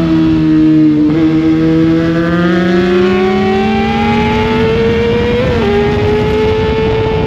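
Sportbike engine heard from on board at speed: the revs fall for about a second, then climb steadily for several seconds, drop sharply at an upshift about five and a half seconds in, and hold steady after.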